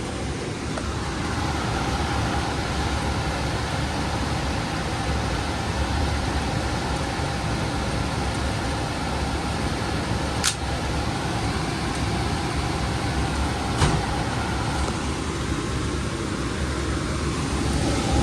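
A steady mechanical running noise, a low rumble with a hiss over it, with two sharp clicks about three seconds apart midway through.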